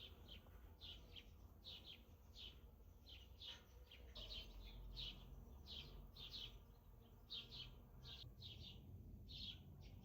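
A bird chirping over and over, short high chirps about two a second, some in quick pairs, over a faint low rumble.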